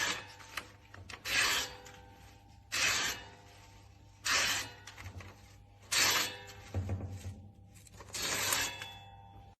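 Kinetic sand crunching: six short, gritty strokes, each about half a second, roughly every second and a half.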